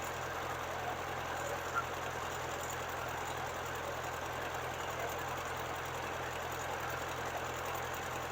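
Well-drilling rig's engine running steadily, a constant low hum with a noisy rush on top.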